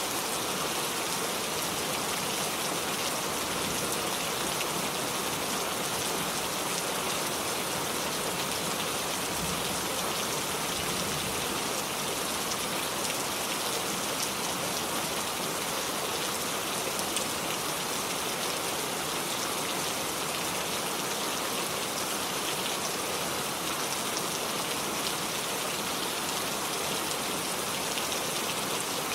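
Steady rain falling, a constant even hiss with fine patter of drops on surfaces.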